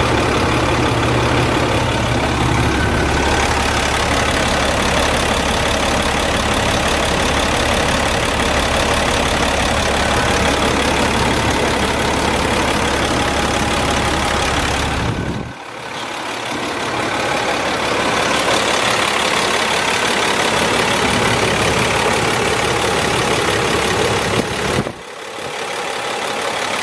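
Box truck engine idling steadily. Its deep low rumble drops out suddenly about fifteen seconds in, with a second brief dip about twenty-five seconds in.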